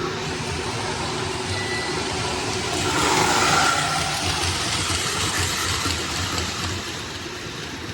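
Lionel model train running on its track: a steady rolling and motor sound that grows louder about three seconds in as the train passes close, then fades.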